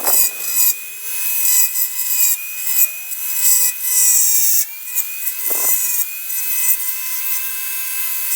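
A small high-speed rotary grinding tool whines steadily while grinding down a plastic mounting tab on a motorbike body panel, with repeated rasping bursts as the bit bites into the plastic. The whine sags slightly in pitch under load about four to five seconds in.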